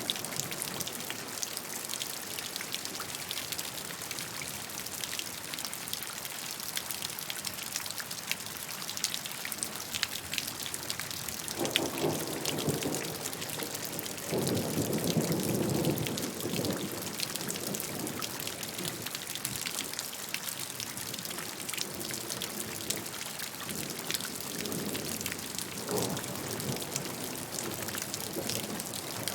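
Steady rain, with drops pattering on a surface. Low rumbles rise out of it about twelve and fifteen seconds in, with fainter ones near the end.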